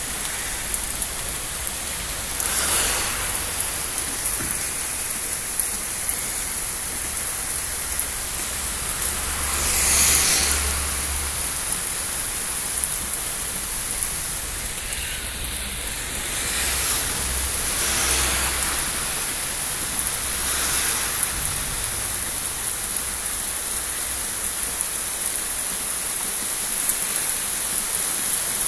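Heavy rain falling steadily during a thunderstorm, swelling louder for a second or two several times.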